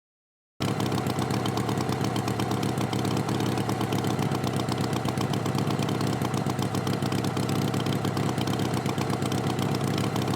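Tractor engine idling steadily, starting about half a second in.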